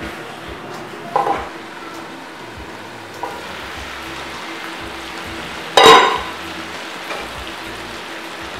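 Chicken pieces sizzling as they fry in an aluminium wok, stirred with a spatula, with a few light clicks and one loud ringing metal clang near the middle.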